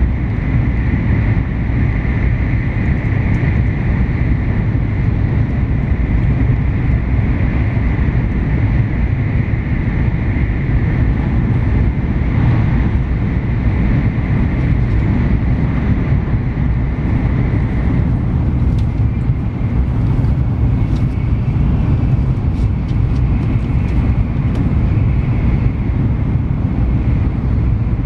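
Cabin noise inside an N700S Shinkansen running at speed: a steady, loud low rumble and rush of wheels, running gear and air, with a constant higher hum over it.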